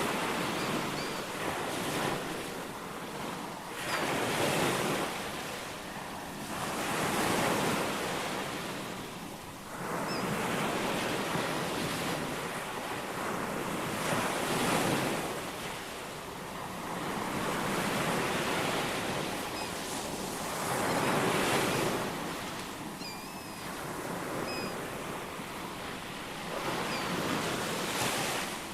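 Ocean surf: waves breaking and washing in, swelling and easing every few seconds. Faint, brief bird chirps come through over the surf now and then.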